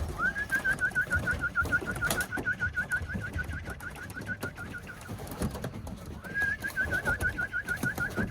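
A bird calling in two long, even trills of rapid chirps, about six a second, the second starting after a pause of about a second.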